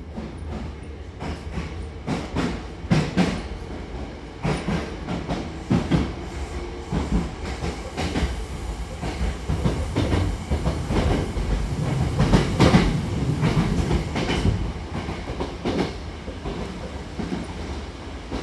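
Hankyu commuter train running between stations: a steady low rumble with wheels clacking over rail joints, swelling louder about two-thirds of the way through.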